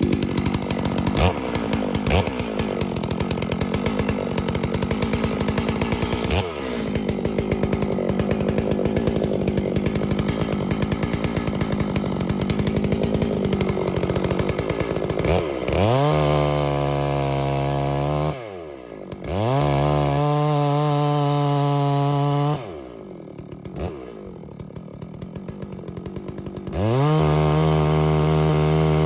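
Holzfforma G660 two-stroke chainsaw cutting into an oak trunk: the engine note wavers and bogs under load for about fifteen seconds. It then revs freely at full throttle, drops, revs up again, falls to a low idle, and revs up once more near the end.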